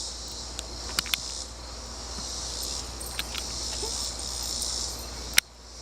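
Steady, high-pitched insect chorus with a few faint clicks. A sharp click comes about five seconds in, and the sound drops abruptly after it.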